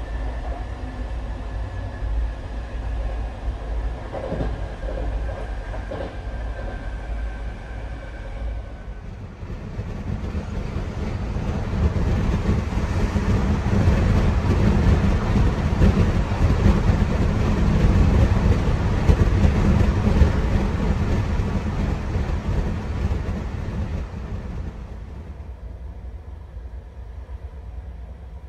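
A train running, heard from inside an AB32 sleeping-car compartment: a steady rumble of the wheels on the rails, with a faint high whine in the first few seconds. It grows louder about a third of the way in and eases off again near the end.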